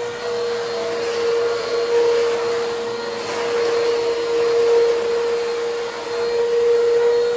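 Eureka Comfort Clean vacuum cleaner running steadily while vacuuming dryer lint, its motor giving a steady whine over the rush of air.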